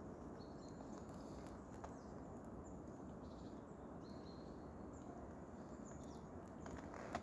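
Faint, quiet forest ambience with small birds giving short, high calls now and then, some flat and some falling, and a few faint clicks; a louder crunch or click comes near the end.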